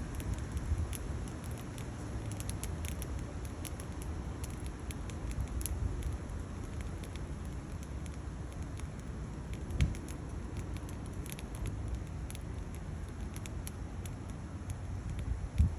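Firewood burning in a stainless steel Bushbox XL wood stove, crackling with many small sharp pops over a steady low rumble. There are two low thumps, about ten seconds in and again near the end.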